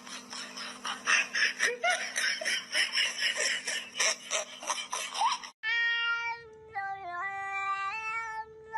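A domestic cat calling. First come short meows over clicking and rustling. From about halfway it holds a long, drawn-out yowl that steps up and down in pitch.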